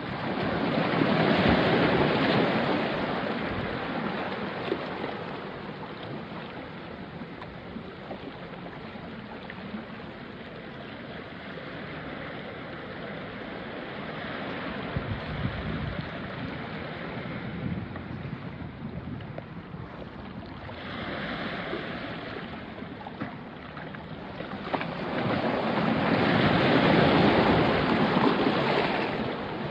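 Small sea waves washing onto a rocky shore, one loud surge about two seconds in and another near the end, with water trickling and crackling among the rocks in between.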